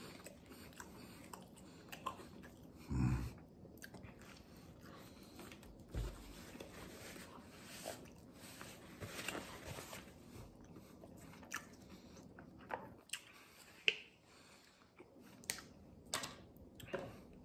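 A man chewing and biting into pizza with its crust, soft mouth and chewing sounds with a few small clicks. A short low sound about three seconds in is the loudest moment.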